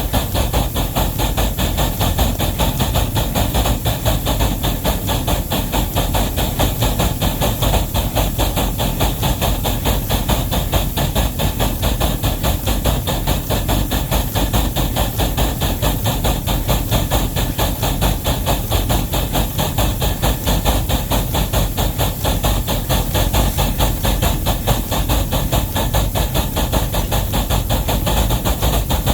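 Wabash #713 steam locomotive working under load with a heavy train, its exhaust beating in a rapid, even rhythm over a steady steam hiss.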